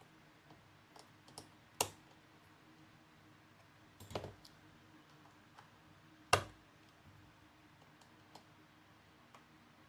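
Small hand tools and parts clicking and tapping against a MacBook Pro's case and components as it is taken apart: scattered light clicks, with three louder taps about two, four and six seconds in.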